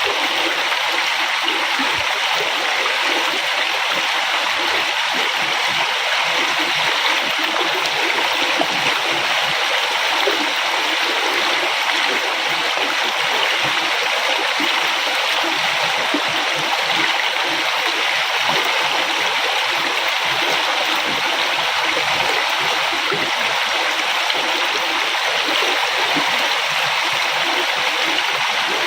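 River water flowing steadily over rocks, a continuous rushing and gurgling.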